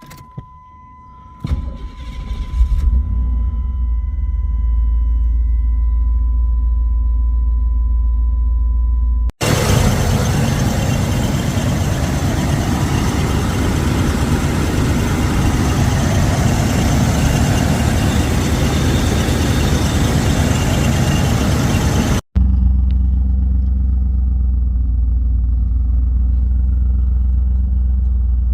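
Chevrolet Camaro Z28 V8 cranking and starting about a second and a half in, then idling with a deep, steady rumble, while a steady warning chime tone goes on for several more seconds. Partway through, the sound cuts abruptly to a louder rushing stretch for about thirteen seconds, then cuts back to the idle.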